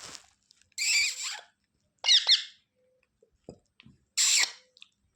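Pet parrot squawking in short bursts: a harsh screech about a second in, two quick shrill chirps about two seconds in, and another harsh screech near the end.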